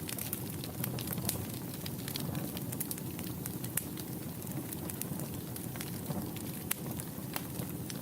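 Wood fire burning in a fireplace, with a steady low rush and irregular sharp crackles and pops.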